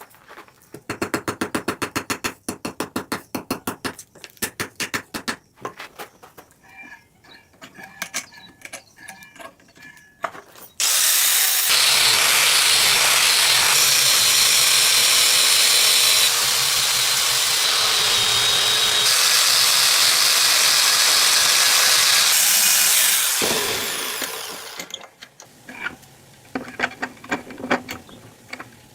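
Blacksmith forging work: a quick run of fast, evenly spaced hammer strikes on steel, then scattered knocks and taps. About eleven seconds in a loud, steady hiss begins and runs for about twelve seconds before fading out, followed by more light knocks.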